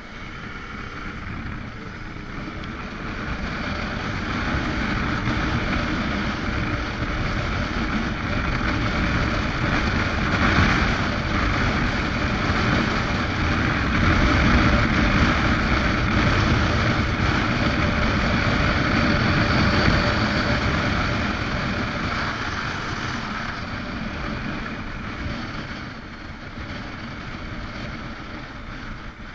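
Motorcycle running on the move, with wind rushing over the microphone. It grows louder over the first several seconds, holds through the middle and eases off near the end.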